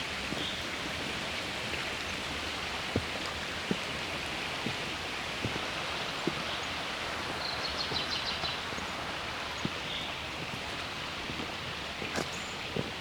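Footsteps on a forest trail at a steady walking pace, about one step a second, over a constant rushing background noise. A bird gives a short trill about eight seconds in, with a couple of brief chirps around it.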